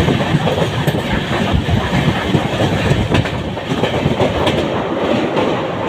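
Passenger express train running at speed, heard from an open door or window of a coach: a steady rumble of wheels on the rails with clickety-clack over the rail joints.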